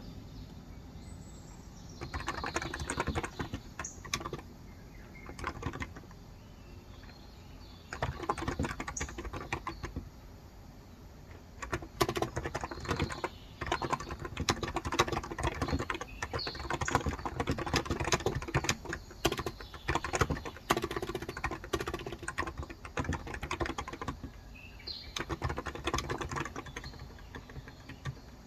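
Typing on a Cox Endeavor electro-capacitive (Topre-style) tenkeyless keyboard with light 35 g switches: keystrokes come in bursts with short pauses and a long steady run through the middle. Faint bird chirps sound in the background, clearest near the end.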